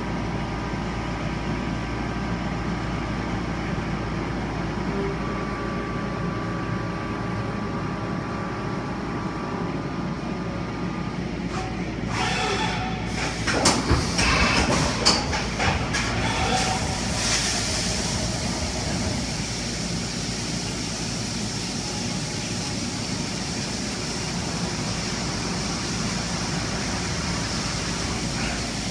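Haas VF-2SS CNC vertical mill running on steel, a steady machine sound with a held tone at first. About halfway through comes a louder stretch of irregular clatter and hiss, after which a steady high hiss carries on.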